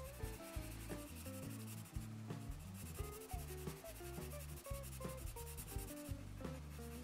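Watercolour pencil scratching back and forth on drawing paper as an area is shaded in, over quiet background music.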